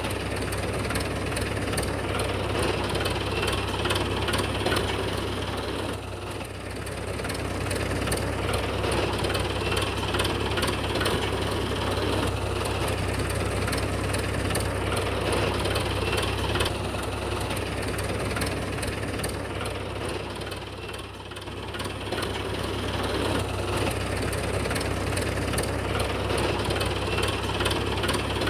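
A small engine running steadily with a low, even hum. It eases off slightly twice, about six seconds in and again near twenty seconds.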